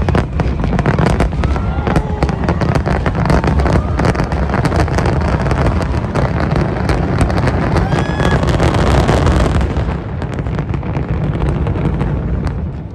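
Dense barrage of aerial fireworks: rapid bangs and crackling over a deep rumble, with a few short whistles. It eases off about ten seconds in and fades further near the end.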